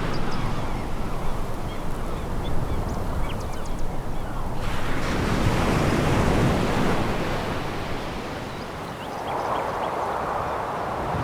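Sea waves breaking and washing over a pebble beach, the surf swelling suddenly about halfway through and again near the end.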